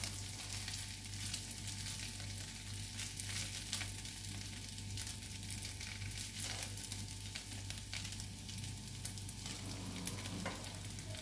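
Sabudana idli pieces sizzling gently in a hot iron kadhai while a spatula stirs and turns them, with a steady fine crackle and a few light scrapes of the spatula against the pan.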